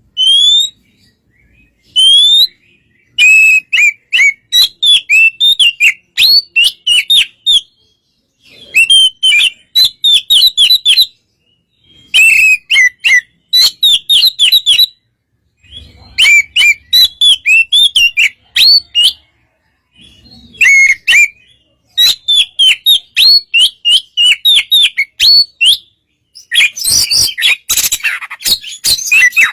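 Oriental magpie-robin (kacer) singing a loud fighting song meant to provoke other magpie-robins into answering. It opens with three single rising whistles, then runs of rapid, slurred whistled notes in phrases of two or three seconds with short pauses, turning into a denser, harsher chatter near the end.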